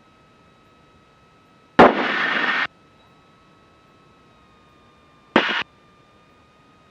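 Two bursts of radio static through the aircraft's intercom, each starting with a sharp click: a transmission keyed with no voice, just under a second long, then a shorter one of about a third of a second. Under them is a faint steady hiss with a thin whine.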